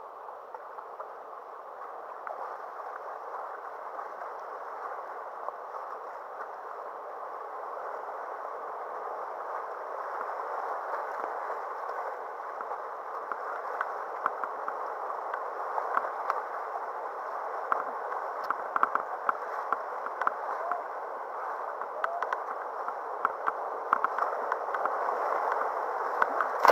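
Klamath River water rushing and gurgling around a kayak, growing gradually louder, with frequent short splashes and knocks in the second half.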